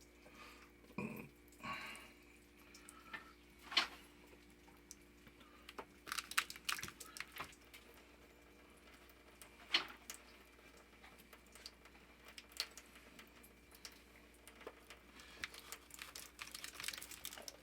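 Scattered light clicks and knocks of tools and parts being handled during a plumbing repair, the sharpest about four and ten seconds in and a quick run of them near the end, over a faint steady hum.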